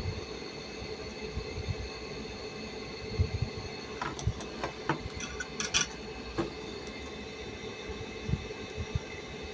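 Steady machine hum made of several even tones, with low knocks throughout and a cluster of sharp clicks and rattles around the middle.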